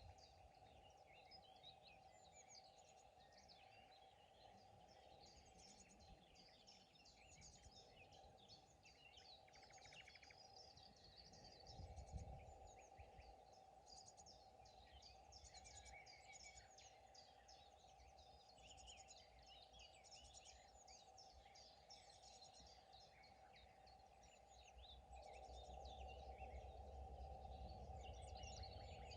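Several songbirds singing and chirping together in quick, overlapping phrases, with a faint steady hum beneath. A brief low rumble comes about twelve seconds in, and the low rumble and hum grow louder near the end.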